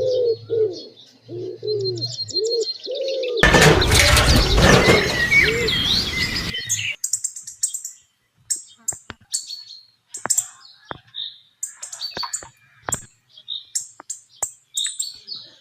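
Birds calling: repeated low dove-like coos at first, then many short high-pitched chirps with sharp clicks between them. About three seconds in, a loud rushing noise covers everything for about three seconds.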